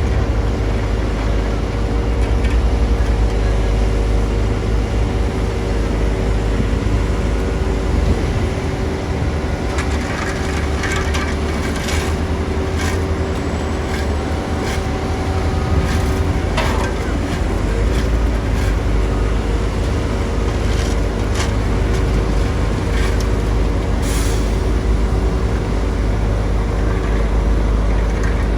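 Heavy diesel construction machinery running steadily with a deep drone. A series of sharp metallic knocks and clanks comes through the middle.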